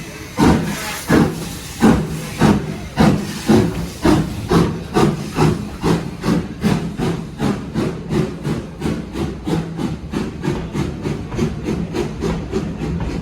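Steam locomotive pulling away: regular exhaust chuffs that come steadily faster and grow a little fainter as it gathers speed, over a steady hiss of steam.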